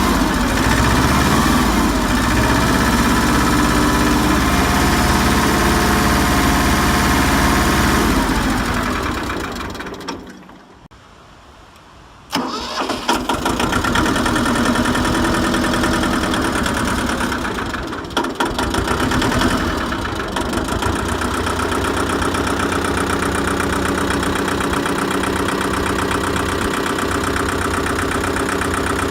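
Ford 1300 compact tractor's diesel engine running, then shut off: it winds down and stops about ten seconds in. After two seconds of quiet it is cranked and catches at once, then idles steadily.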